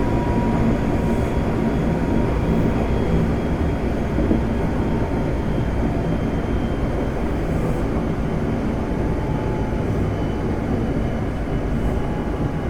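Interior running noise of a Semboku Rapid Railway 5000 series electric train car at speed: a steady rumble of wheels on rail. Over it, a faint whine slowly falls in pitch.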